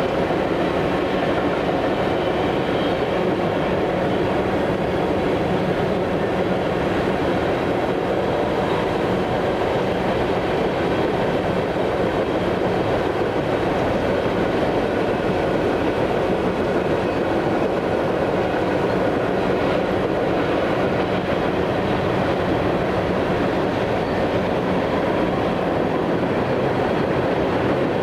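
A train rolling past, the steady noise of its cars' wheels on the rails continuing unbroken at an even level, with faint steady tones running through it.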